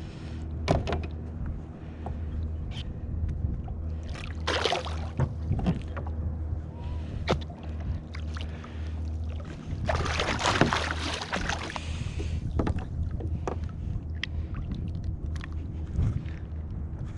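Water splashing at a kayak, with scattered knocks and clicks of fishing gear being handled, over a steady low hum. The two biggest splashes come about four and a half seconds in and again from about ten to twelve seconds in.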